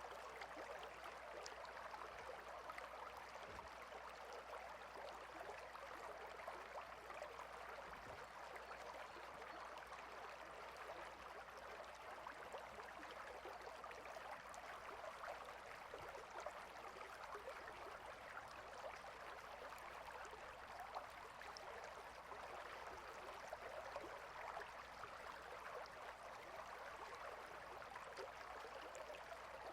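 Stream water flowing, a faint, steady rush of water.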